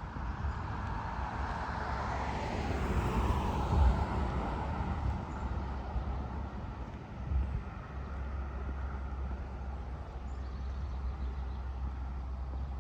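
A car passing by, its road noise swelling to a peak about three seconds in and then fading, over a steady low rumble.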